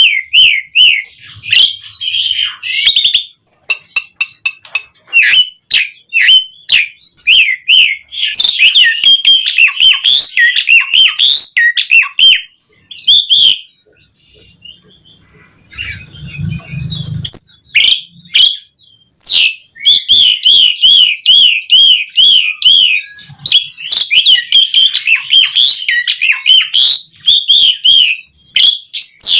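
Asian pied myna (jalak suren) singing a loud, varied song of rapid chattering notes, whistles and clicks, with a short pause about halfway through.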